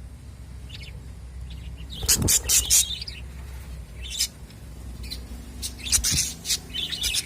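Budgerigars chirping in a cage: bursts of quick, high chirps about two seconds in and again several times toward the end, over a steady low hum.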